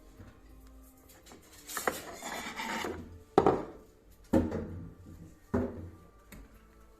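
About a second of scraping or rubbing, then three sharp knocks roughly a second apart, each ringing briefly, as of hard parts being handled and knocked together.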